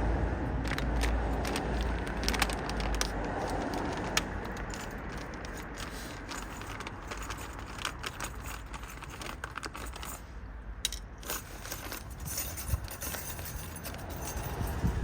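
Irregular metallic clinks, scrapes and rattles of metal brake parts and tools being handled. A low rumble in the first few seconds fades out.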